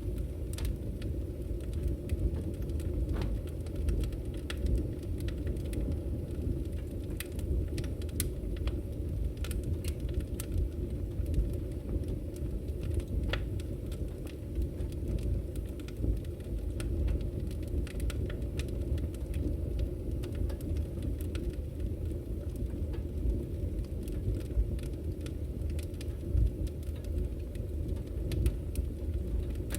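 Firewood burning in a Victory Camp Taiga camping wood stove: a steady low rumble of the fire with scattered, irregular crackles and pops.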